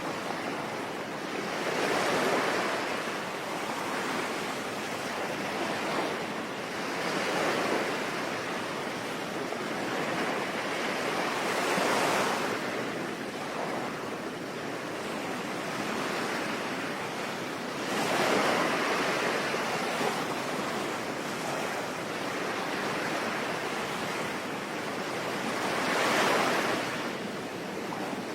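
Ocean waves surging onto a shore and drawing back, swelling loud every four to six seconds over a steady hiss of rain.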